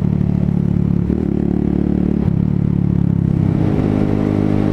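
125cc motorcycle engine running under way, its note shifting in pitch near the middle with a brief break, as in a gear change, then holding steady.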